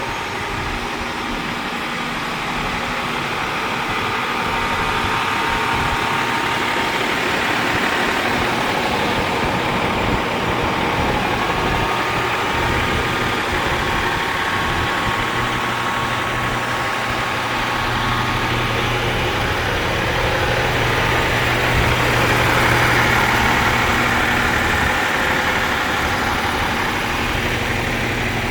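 Heavy truck diesel engine idling steadily, a low even hum that swells a little about two-thirds of the way through.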